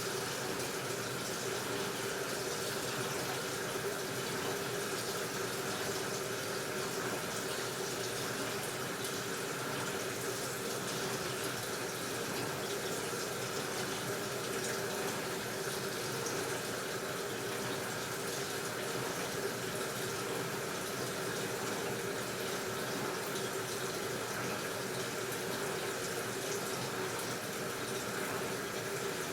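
AQUA washing machine filling with water: a steady rush of water pouring into the drum.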